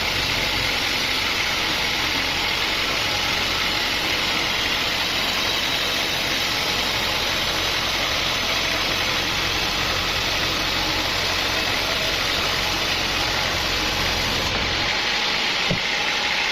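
Sawmill machinery running steadily with an engine-like hum; its low rumble drops away near the end.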